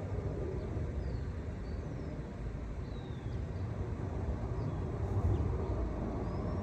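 Outdoor ambience: a steady low rumble, with a few faint, short bird chirps scattered through it.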